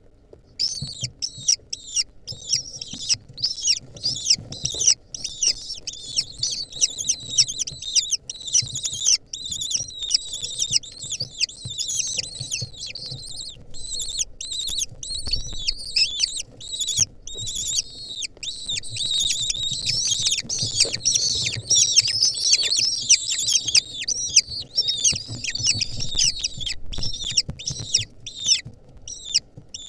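Lesser kestrel nestlings begging to be fed: a dense, unbroken chorus of short, shrill, downward-slurred calls that starts about half a second in.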